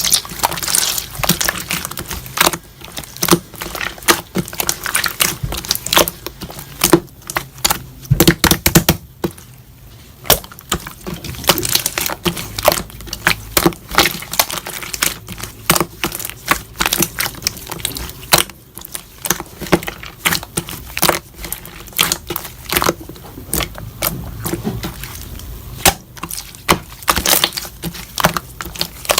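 Slime being squeezed and pressed by hand, giving a dense run of irregular wet crackles and pops.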